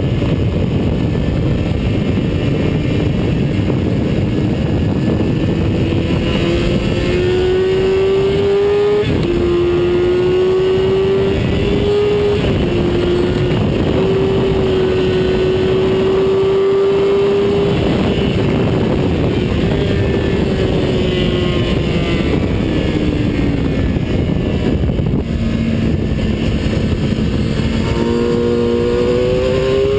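Engine of a vehicle lapping a race track at speed, heard onboard over heavy wind and road noise. Its pitch climbs under acceleration with a brief break, holds high, then falls away and steps lower before climbing again near the end.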